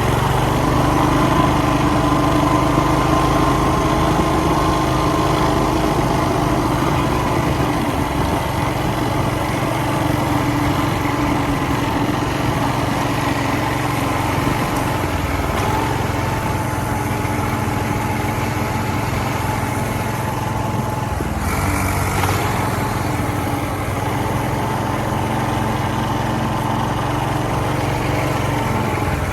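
X-Pro 40cc minibike's small gas engine running steadily during a ride, its pitch shifting a little with the throttle. A brief hiss a little over two-thirds of the way through.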